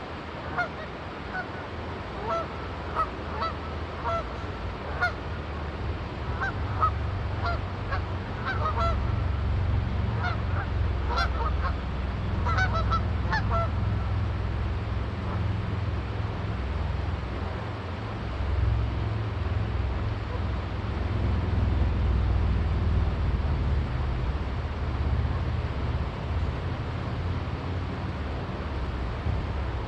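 A flock of Canada geese honking in short, repeated calls, thickest in the first half and dying away after about fourteen seconds. A steady low rumble runs underneath and grows louder after the first few seconds.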